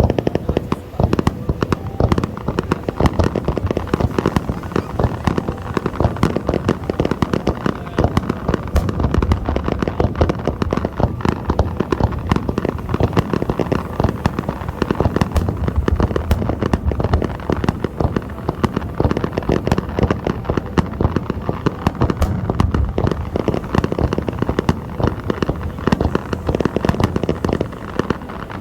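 Fireworks display: a dense, continuous barrage of bangs and crackling bursts with no pause.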